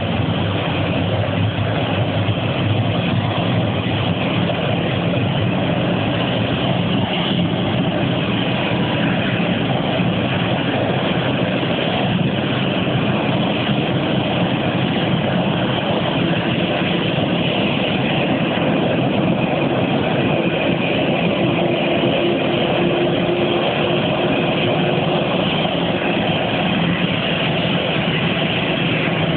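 CFM56-5B turbofan engine of an Airbus A319 running steadily on the ground: a loud, even rush with a low hum that holds without change.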